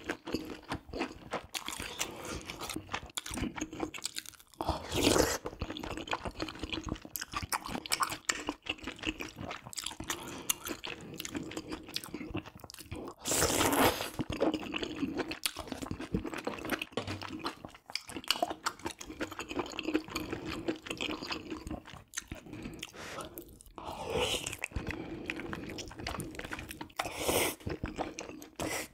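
Close-miked chewing and mouth sounds of a person eating spicy braised pork ribs with rice cakes and mushrooms: steady wet clicks and smacks, with a few louder bursts about 5, 13 and 24 seconds in.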